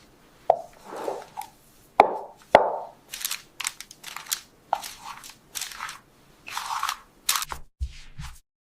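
A string of short cartoon sound effects: sharp taps and crunches with brief rustling swishes between them.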